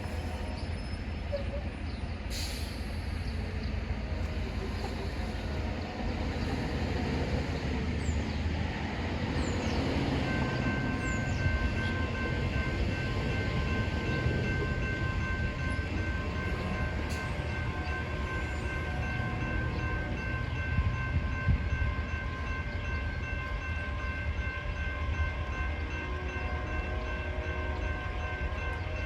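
Freight train approaching: a steady low rumble, with several steady high ringing tones joining about ten seconds in and holding on.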